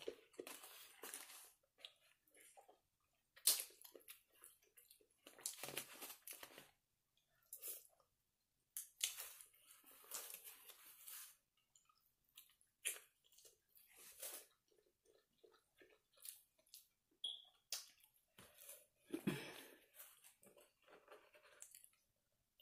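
Quiet close-miked chewing of barbecue and onions: soft crunches, wet mouth sounds and smacks at irregular intervals.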